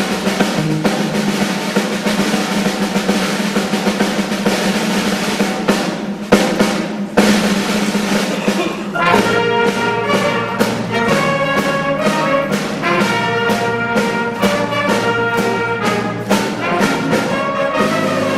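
School concert band playing, with brass over a snare drum roll. About halfway through, the sound changes to separate held brass chords with regular percussion strokes.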